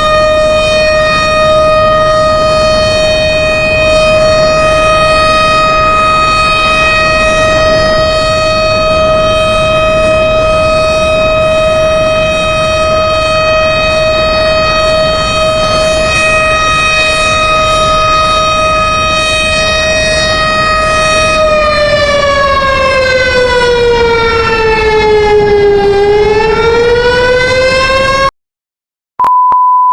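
Tornado warning siren sounding a steady tone, then falling in pitch and rising again before it cuts off abruptly. After a moment of silence a steady high beep starts near the end.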